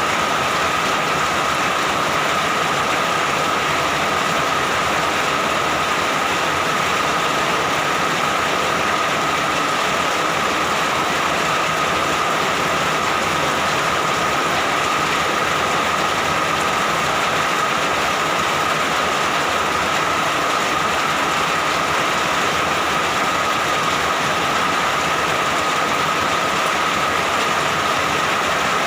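Steady heavy rain, an even hiss with no let-up or pauses.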